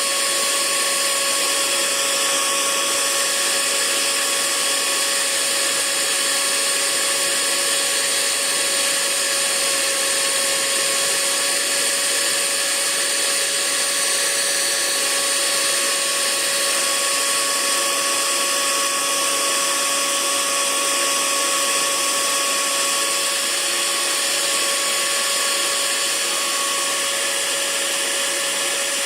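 Hair dryer running steadily: an even rushing hiss of blown air with a constant motor whine and a few steady tones above it, played as continuous white noise.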